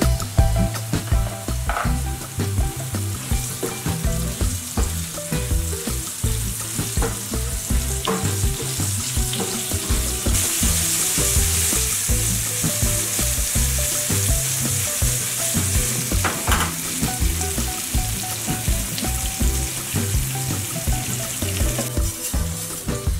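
Bitter gourd strips sizzling as they fry in hot oil in a wok, turned now and then with a wooden spoon. The sizzle grows strongest about halfway through.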